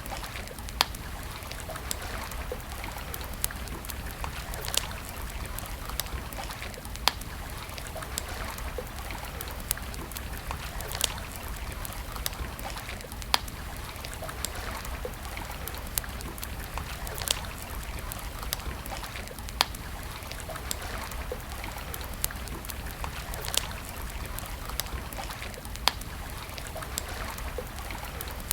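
Campfire burning, with sharp wood pops every two to four seconds over a steady soft rush.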